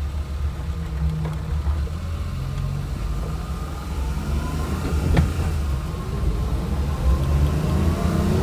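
Daihatsu 4WD mini truck van being driven, its small engine running under a low road rumble. The engine note rises steadily from about three seconds in as the van accelerates, with one sharp thump a little after five seconds.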